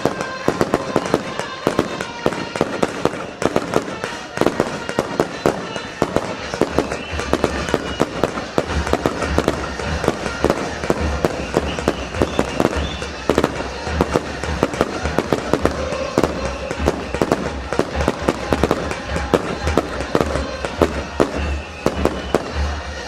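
Fireworks show: a rapid, continuous barrage of firework bangs and crackles, several reports a second.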